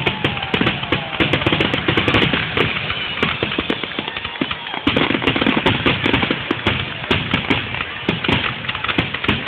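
Fireworks display in a rapid barrage, many bursts and crackles overlapping with no break, with a faint falling whistle near the start.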